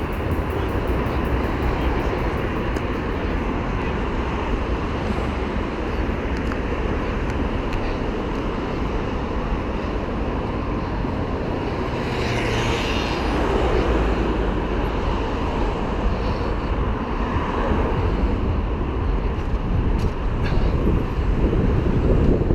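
Steady wind and road rumble from a GoPro riding on a mountain bike at speed, with a louder swell of traffic-like noise about halfway through.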